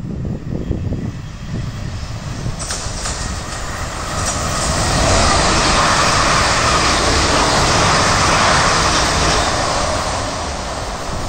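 Train running past, its rail and wheel noise building from a few seconds in, loudest midway, and easing off near the end.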